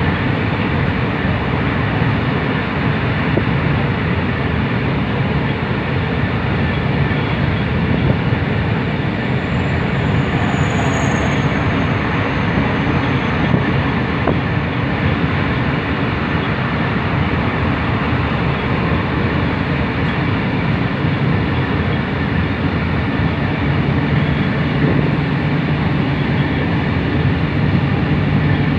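Steady rumble and rushing noise of a train running at speed, heard from inside the carriage.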